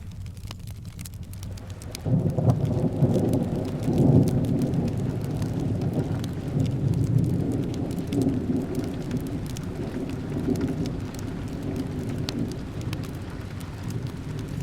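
Steady rain with a rumble of thunder that breaks in suddenly about two seconds in and slowly fades away. Small crackles run through it.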